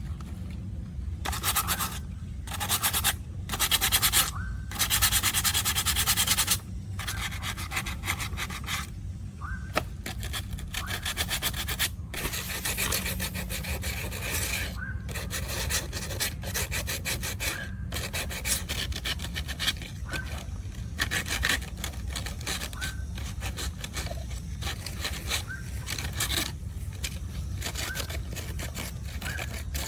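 Abrasive rubbing on a surface, as in sanding or filing. A louder, harsher spell comes in the first few seconds, followed by many short, uneven strokes.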